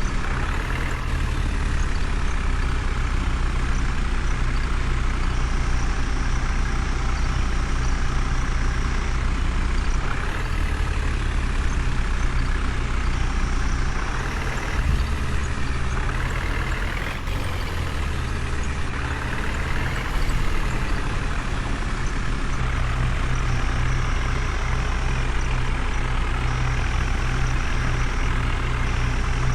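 Heavy diesel engine running steadily, revving up and back down several times around the middle.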